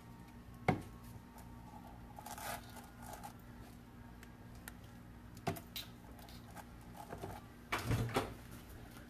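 Kitchen utensils and containers being handled: a sharp knock about a second in, another around five and a half seconds, and a short run of clattering knocks near the end, over a faint steady hum.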